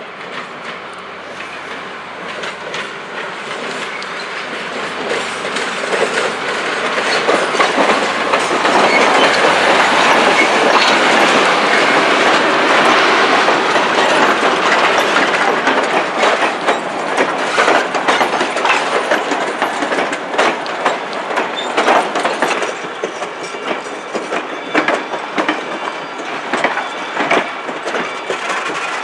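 A train passing close by, its wheels clicking over the rail joints. The sound builds over the first several seconds, is loudest about a third of the way in, then eases while the wheel clicks continue.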